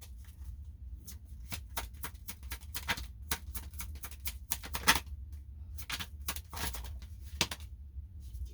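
Tarot cards being shuffled by hand: a quick, irregular run of card flicks and slaps, with a few longer riffles, loudest about five seconds in, over a low steady hum.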